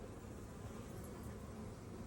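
Faint, steady low hum of honeybees around an opened beehive.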